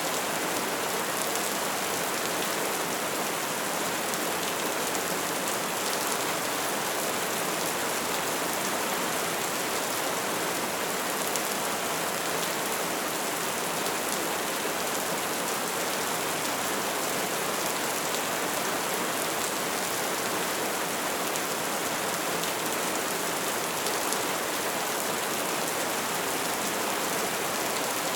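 Wood fire burning with a steady, dense crackle of many small pops over a soft hiss.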